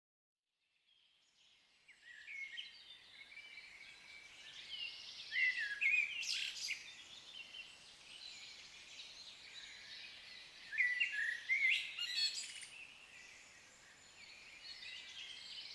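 Small birds singing and chirping, fading in from silence over the first two seconds, with louder bursts of song about five and eleven seconds in.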